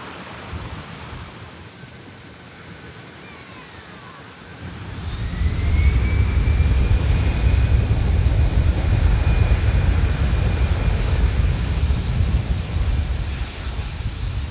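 Jet airliner passing low overhead. Its engine rumble swells in about four to five seconds in and stays loud, with a high whine that rises and then holds steady. It eases off near the end.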